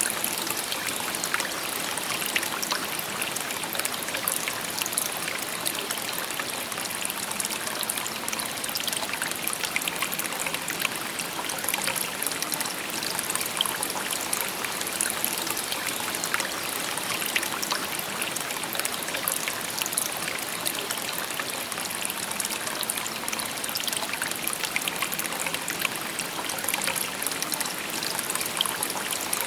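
A shallow river babbling steadily: an even rush of water, brightest in the high range, flecked with many small splashes.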